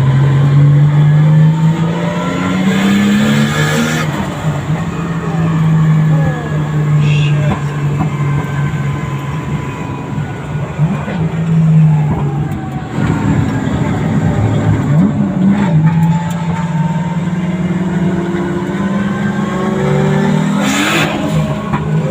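Drift car's engine heard from inside the cabin, revving hard and repeatedly, its pitch rising and falling with short dips between pulls.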